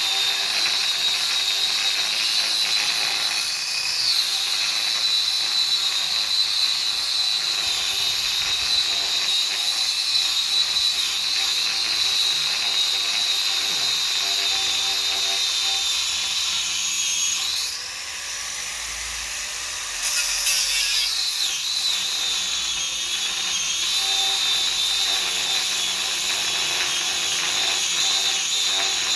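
Angle grinder with a cutting disc running against metal, a steady high whine, easing off briefly about two-thirds of the way through before it bites again.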